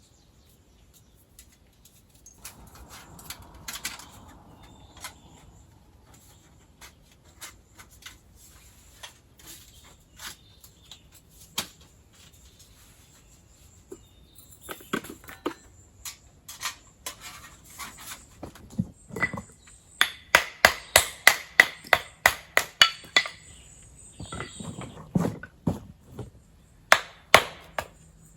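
A hand tool striking repeatedly: scattered single knocks at first, then a fast run of loud, sharp strikes with a slight ring, about four a second, and a few more near the end.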